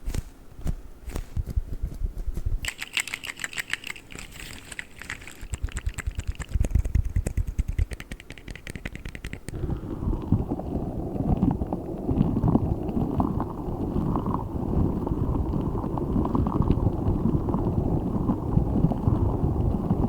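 Quick ASMR trigger sounds: clicks and tapping strokes. About halfway through they give way to close-up squishing and squeezing of a giant spiky orbeez ball, a dense, continuous crackly squish.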